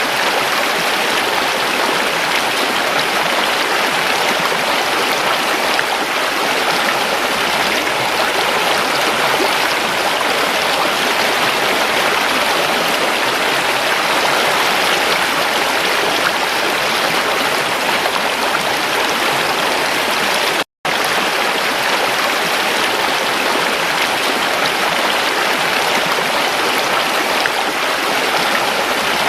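Creek water flowing over rocks in a steady, even rush. It cuts out for an instant about two-thirds of the way through.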